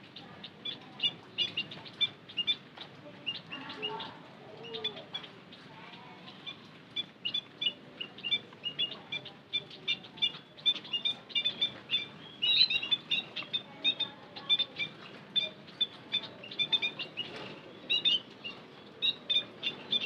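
White-headed munias chirping: many short, high chirps in quick, irregular runs, busiest in the second half.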